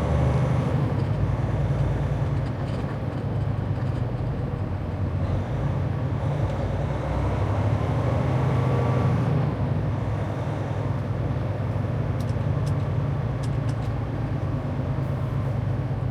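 Semi truck's diesel engine running steadily, with a few light ticks about three-quarters of the way through.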